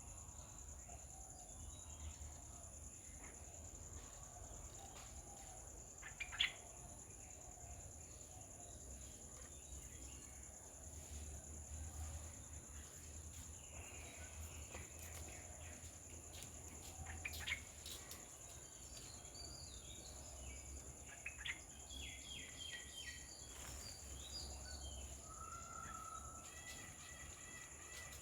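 Scattered bird chirps and calls, the sharpest about six seconds in and again near seventeen seconds, with short runs of quickly repeated notes near the end, over a steady high-pitched ringing and a low hum.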